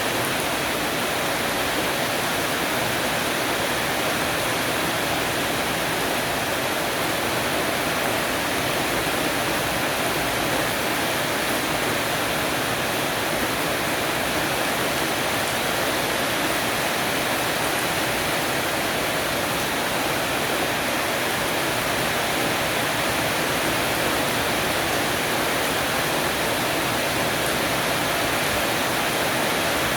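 Heavy rain shower falling on a porch roof, an even, steady hiss of rain.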